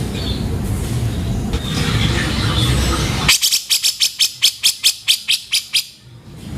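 Grey-cheeked bulbul (cucak jenggot) calling. About halfway through comes a rapid run of about a dozen harsh, rough notes at roughly five a second, after a low rumbling background with faint calls.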